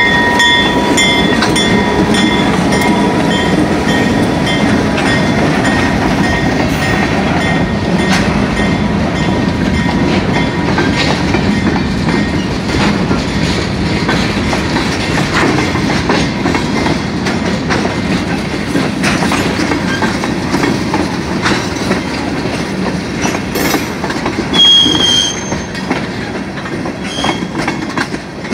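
A freight train rolling slowly past, led by EMD GP38-series diesel locomotives pulling covered hopper cars. Its horn trails off in the first second or so, then the wheels run with a steady rumble and clickety-clack over the rail joints. A brief high wheel squeal comes about 25 seconds in and again shortly after.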